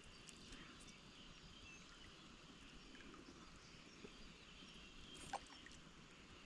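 Near silence: faint background hiss, with one small click about five seconds in.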